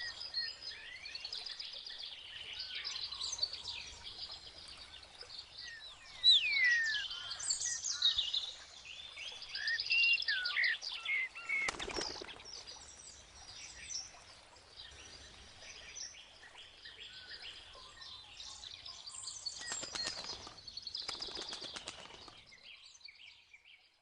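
A chorus of songbirds chirping, twittering and whistling, with some falling whistles; twice a short rustling burst cuts across the birdsong. The sound fades out near the end.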